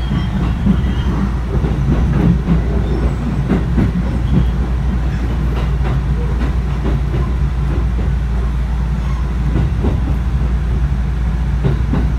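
Inside a moving electric commuter train: a steady low rumble of the running train, with frequent irregular clicks and knocks from the wheels over rail joints and points.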